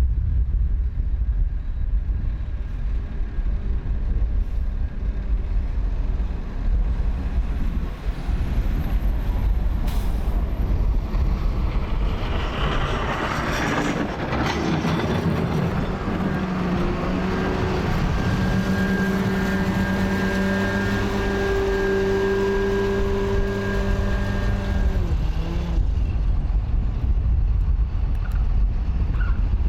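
A heavy motor vehicle's engine running with a steady low rumble. It grows louder about twelve seconds in and holds a steady drone for several seconds before dropping back.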